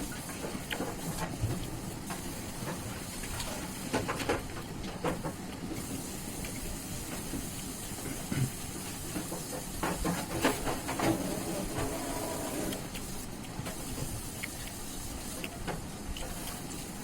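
Eating sounds from chicken liver curry and rice: irregular wet clicks and smacks of chewing and handling the food, bunched about four seconds in and again near the middle, over a steady background hiss.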